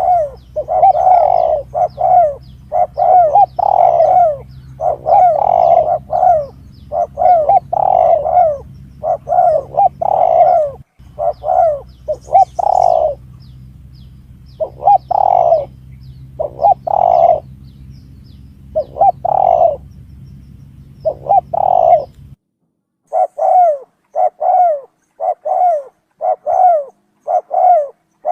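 Spotted doves (tekukur) cooing over and over, a recorded lure call with short coos about once a second. A steady low hum under the calls cuts out about three-quarters of the way through, leaving silence between the coos.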